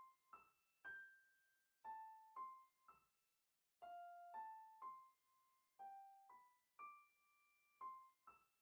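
Quiet solo piano melody of slow single notes, each struck and left to fade, with dead silence between them and no outdoor background.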